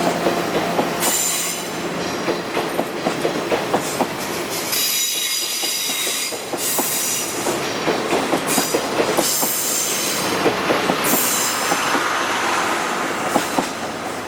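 Locomotive-hauled passenger coach running on the rails, heard from inside: a steady rumble with many sharp clicks from the wheels and track, and high wheel squeal that comes and goes in several stretches of a second or two.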